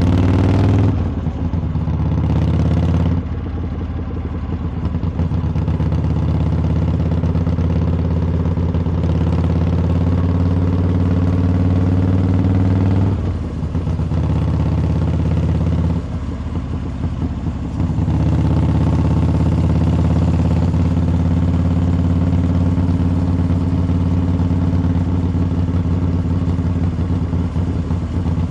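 Harley-Davidson V-twin engine and exhaust under way on a ride, holding a steady low note. The pitch rises briefly at the start, and the note dips for a moment a few times, about a second in, around three seconds in, and twice more later.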